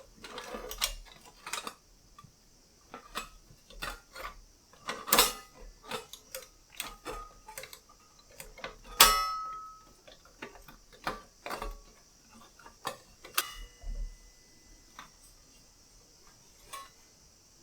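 Irregular metal clicks and clinks from a small metal fire stand, the SOTO Mini Hexa, as its parts are handled and fitted. About nine seconds in comes one louder clank that rings on briefly.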